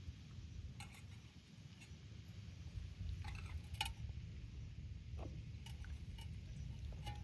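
Scattered light clicks and taps from a cooking pot over a low steady rumble, stronger in the second half.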